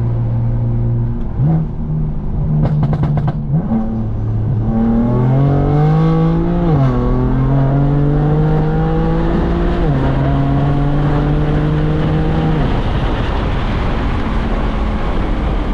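Car engine accelerating hard in a pull: after idling with a short rev, its pitch climbs, drops at an upshift about seven seconds in, climbs again and drops at a second shift near ten seconds, then eases off near the end.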